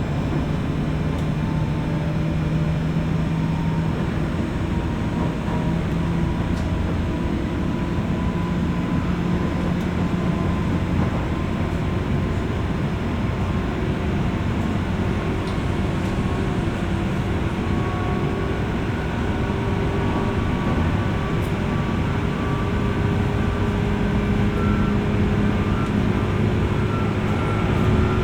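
Running noise inside a JR West 201 series electric train motor car, heard from above its armature chopper equipment: a steady rumble of wheels on rail with humming motor and drive tones that drift in pitch. Near the end the hum rises a little and grows slightly louder.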